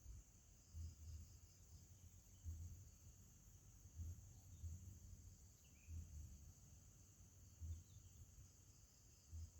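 Near silence: a faint, steady high insect drone, with soft low thumps every second or two.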